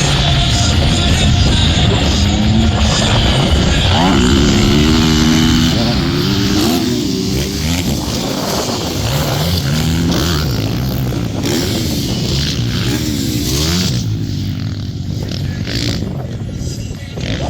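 Motocross bikes racing, their engines revving up and down again and again as the riders accelerate and shift, several overlapping at times.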